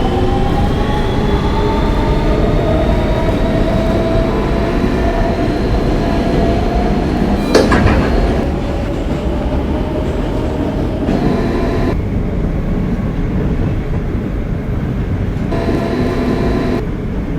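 R160B subway car with Siemens propulsion running between stations: the traction motors whine in several rising tones as it picks up speed, then hold steady over the rumble of the wheels on the rails. A single sharp bang about seven and a half seconds in.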